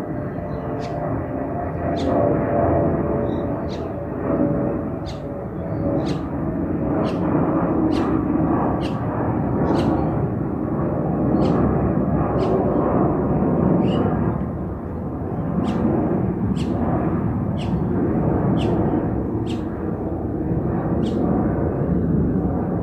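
Jetstar Airbus A320-232 airliner climbing out after takeoff: a loud, steady jet engine noise from its IAE V2500 turbofans, with a hum of steady tones in the first part. A short high chirp repeats about once a second above it.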